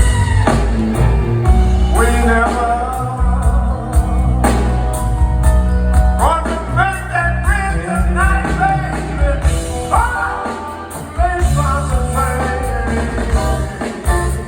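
Live blues band playing a slow song: a lead electric guitar solo with notes bent upward over a steady bass line.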